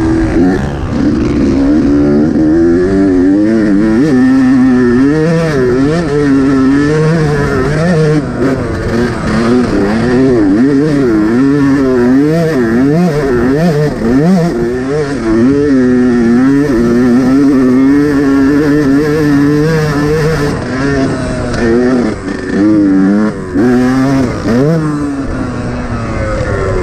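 Yamaha YZ125 two-stroke motocross engine revving hard around the track, its pitch climbing and dropping again and again as the throttle is opened and shut through the corners and jumps, with a few short throttle chops near the end.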